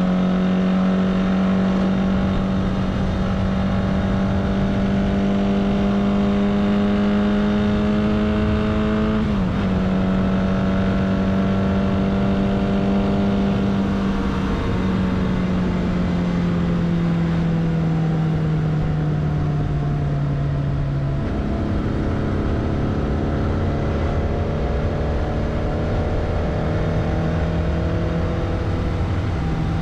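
Kawasaki GT 550 air-cooled inline-four motorcycle engine under way, heard from on board with wind rush. Its pitch dips and recovers about nine seconds in, then sinks slowly from about fifteen seconds in as the bike slows on the throttle, and steps up about twenty-one seconds in with a downshift before holding steady.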